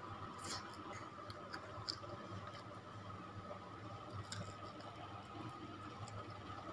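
Faint chewing of fried banana with crispy batter crumbs (pisang goreng kremes), with scattered small crackles and mouth clicks, over a steady low hum.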